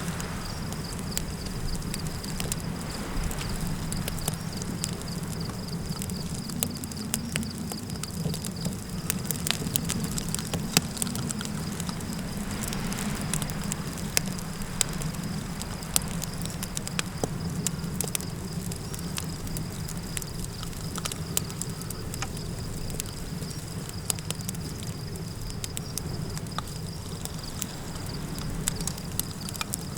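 Campfire crackling, with frequent sharp pops and snaps, over a steady low rumble of wind. A steady high insect drone runs underneath.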